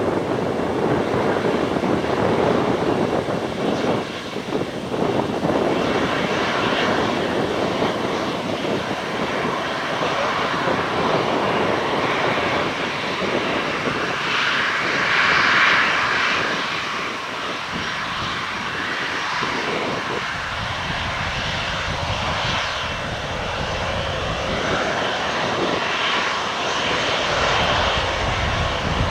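Fixed-wing aircraft engines running close by: a steady, loud rushing noise that swells about halfway through, then deepens near the end.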